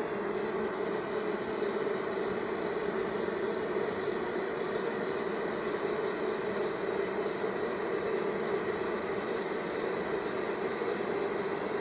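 Honeybee colony humming steadily in a loud, even drone: bees fanning their wings to drive moisture out of freshly gathered nectar so the honey thickens.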